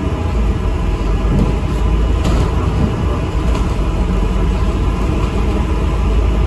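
Steady engine and road rumble inside an ADL Enviro 400 MMC double-decker bus while it is driving, with light rattles of the body and fittings.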